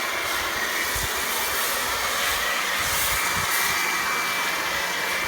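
Pressure washer running and spraying snow foam through a foam lance: a steady spray hiss with a thin, high whine.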